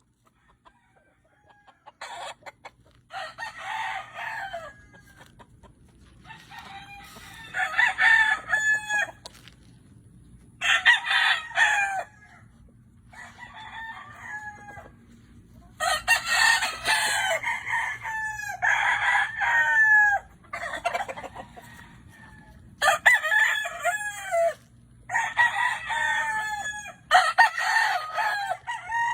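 Roosters crowing one after another, sometimes overlapping, a new crow every two or three seconds after a quiet first couple of seconds. A faint steady low hum runs underneath.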